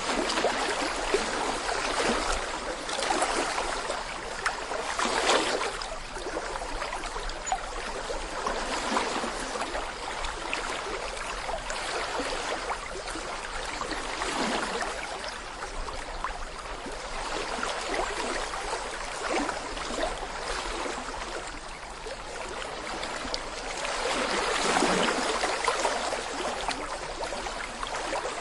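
Small brook babbling over stones: continuous gurgling and trickling water, swelling louder now and then.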